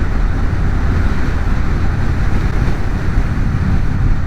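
Wind rushing over a helmet-mounted camera microphone while riding, over the steady low rumble of an Indian V-twin cruiser motorcycle under way.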